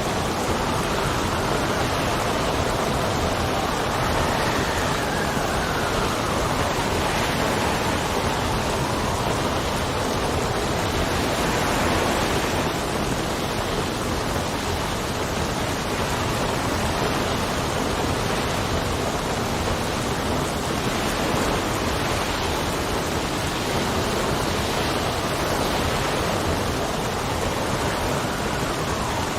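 Steady rain with wind blowing. A faint whistle of wind rises and falls in pitch a few seconds in.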